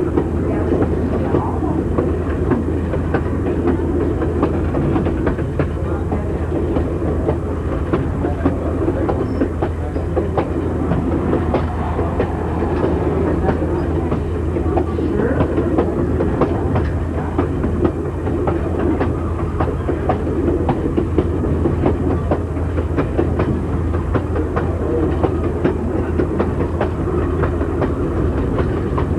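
Passenger car rolling along jointed track: a steady rumble of wheels on rail, with a running clickety-clack of rail joints.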